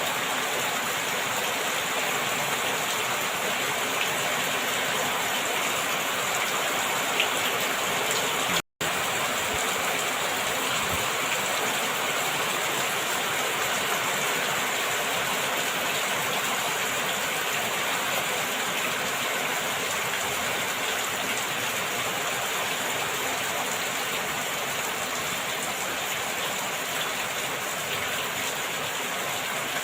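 Rain falling steadily as a dense, even hiss, cut off completely for a split second about nine seconds in.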